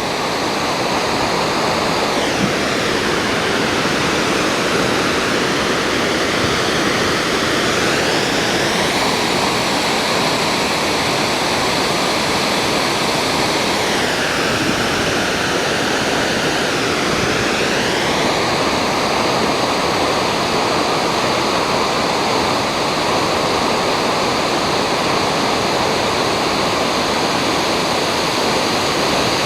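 Waterfall running with a loud, steady rush of falling water. Twice the higher hiss drops away for a few seconds, leaving a duller rush, then returns.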